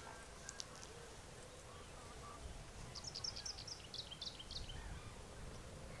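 A small bird calling from the reedbed: a quick run of about ten short, high notes stepping down in pitch, about three seconds in, with a few fainter high notes near the start. Low wind rumble runs underneath.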